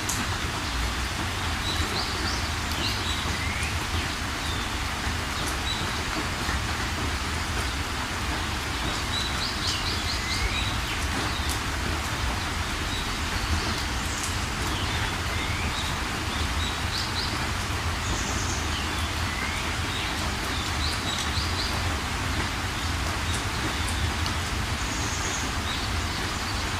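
Steady rain hiss with birds calling over it: short rising chirps and quick high trills recurring every few seconds, over a low rumble.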